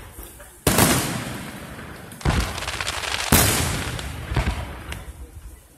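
Aerial fireworks shells bursting: three loud booms, the first about a second in, the next two closer together a little past the middle. Each booms dies away slowly with scattered small crackles.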